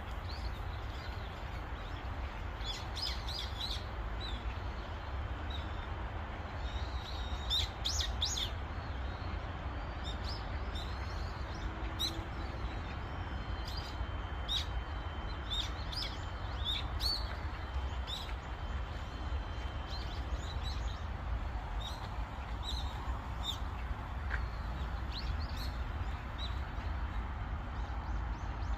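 Small birds chirping and calling in short, scattered notes, over a steady low rumble.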